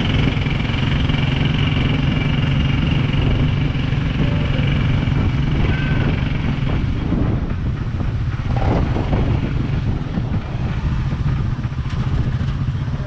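Small motorcycle engine of a moto taxi running steadily while carrying passengers along the road, heard from on board. A fainter higher whine fades out about halfway through.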